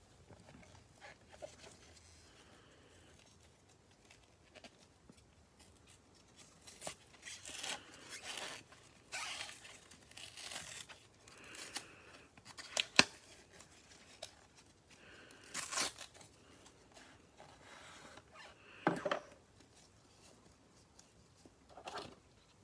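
Packaging of a football card hanger box being torn open and crinkled, in several bursts with a few sharp snaps.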